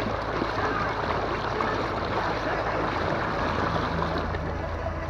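Water rushing and splashing against the hull of an inflatable boat under way, with a low steady hum underneath from its electric outboard motor. The hum grows a little stronger past the middle.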